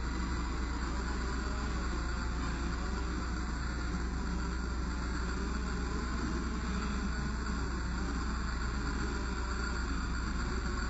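1/14-scale radio-controlled Scania R620 truck running with a steady, engine-like low hum over a constant hiss, unchanging throughout.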